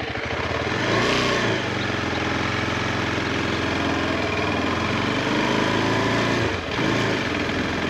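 Motorcycle engine running just after being started, rising briefly about a second in, then settling to a steady idle with a short dip near the end.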